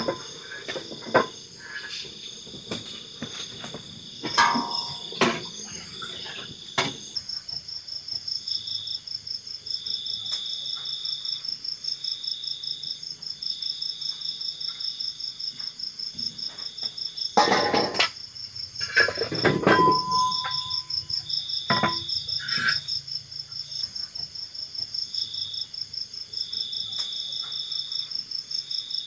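Crickets chirping in a steady, rapid pulsing chorus, with a second insect trilling on and off beneath it. Scattered knocks and clatter of something being handled cut through, the loudest bunch about two-thirds of the way through.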